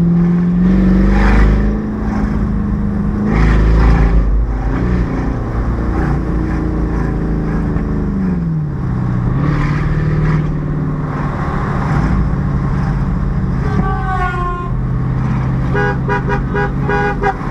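The 6.2-litre V8 of a 2012 Chevrolet Camaro SS fitted with exhaust cut-outs, running under way, its pitch rising about a second in, with two loud low surges in the first four seconds, and easing down around eight to nine seconds. Car horns honk near the end: a falling toot about fourteen seconds in, then a rapid run of short beeps.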